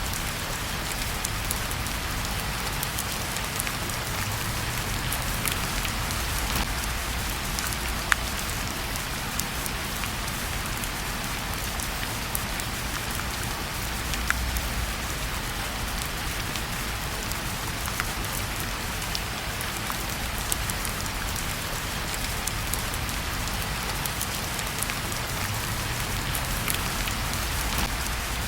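Steady rain falling, with occasional sharp clicks scattered through it.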